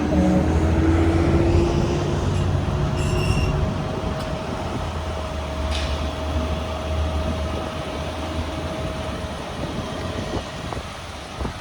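Roll-off truck's diesel engine running steadily, with a steady mechanical whine over it that fades out about ten seconds in, and a few light clicks.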